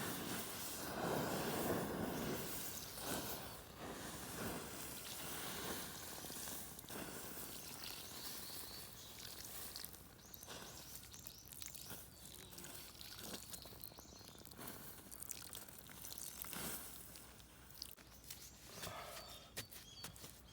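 Water poured onto the glowing embers of a campfire built on bare ground, hissing loudest for the first few seconds, then dying down to a faint hiss with scattered small pops and drips as the fire is put out.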